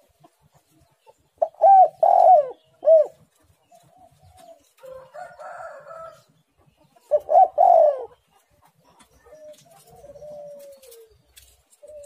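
Spotted dove cooing. Two loud phrases of a few short, rounded notes come about five seconds apart, with softer, drawn-out coos in between.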